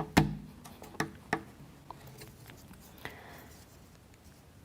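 Wooden model-kit parts being handled and pressed together: a few sharp clicks and knocks, the loudest just after the start and two more about a second in, then fainter taps.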